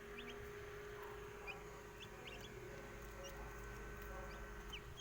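Young asil chicks peeping: short, high cheeps several times a second, over a steady low hum.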